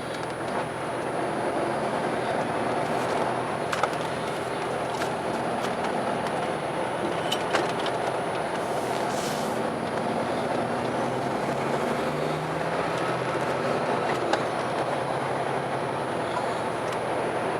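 Car driving along, its steady road and engine noise heard from inside the cabin, with a few sharp clicks or knocks along the way.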